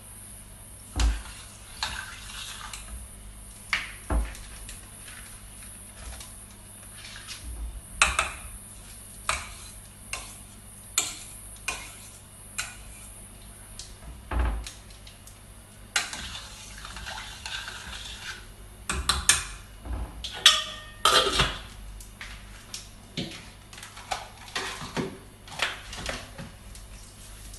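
Kitchen dishes and cutlery clinking and knocking in irregular clatters, with a busier run of knocks about twenty seconds in.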